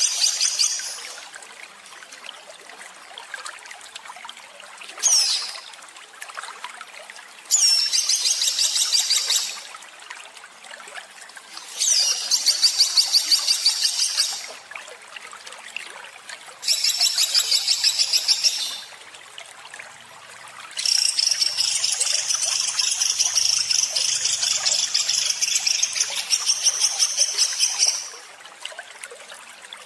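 Songbird singing harsh, rapid-fire trilled phrases, the 'tembakan kasar' of Indonesian song-bird training recordings. The phrases come in bursts of about two seconds with pauses between, then a longer run of about seven seconds near the end. A steady trickling-water background runs underneath.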